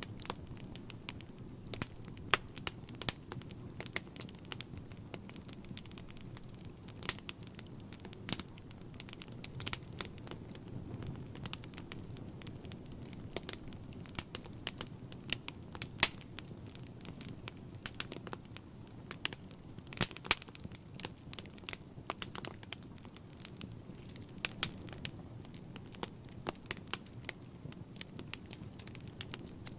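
Wood fire burning in a fireplace: a steady low rumble of flames with dense, irregular crackles and occasional louder pops from the burning logs.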